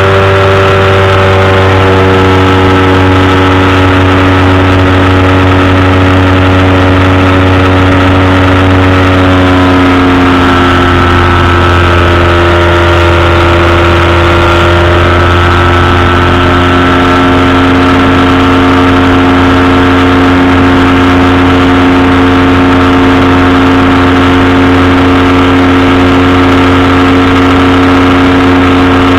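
Powered parachute engine and propeller droning steadily in flight. The pitch wavers and shifts about a third of the way in, then settles back to a steady drone.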